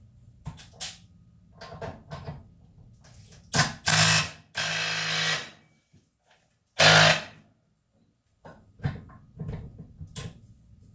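Impact wrench run in a few short bursts and one longer burst of about a second, breaking loose the nozzle nut of a 6.0 Powerstroke fuel injector clamped in a vise. Light clicks and knocks of handling come before and after.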